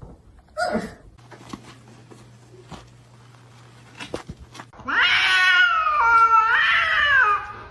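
A domestic cat giving a long, drawn-out yowl that starts about five seconds in and lasts about two and a half seconds, its pitch wavering. It is preceded by a short call near the start and a few soft clicks over a low hum.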